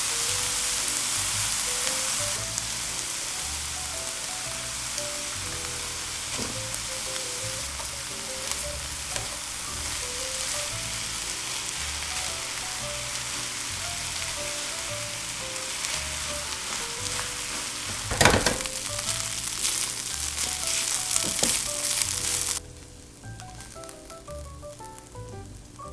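Food frying in a pan, a steady sizzle with stirring, and a sharp metal knock about 18 seconds in. The sizzling cuts off suddenly near the end, over light background music.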